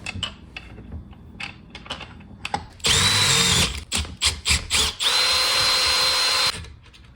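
Power drill drilling out the threads of a nut. After a few quiet handling clicks, it runs briefly, gives several quick trigger blips, then makes a longer steady run of about a second and a half with a high motor whine.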